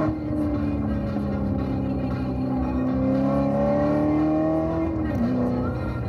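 Chevrolet C7 Corvette Z06's supercharged 6.2-litre V8 pulling in second gear, its pitch rising steadily. About five seconds in, the pitch drops as it upshifts to third.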